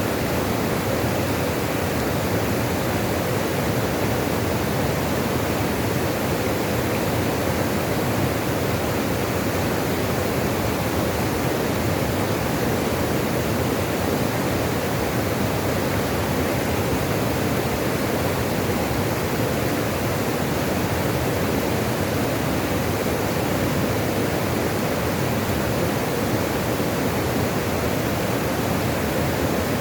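Running water: a steady, unbroken rush of flowing water, even and unchanging.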